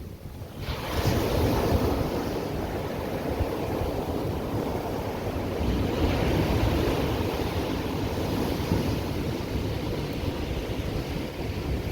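Ocean surf washing onto the shore as a continuous roar that swells about a second in, with wind rumbling on the microphone.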